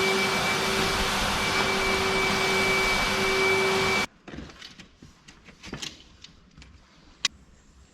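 Big industrial vacuum cleaner running steadily with a high whine over a lower hum, cutting off suddenly about four seconds in. After that come only faint scattered knocks and a single sharp click near the end.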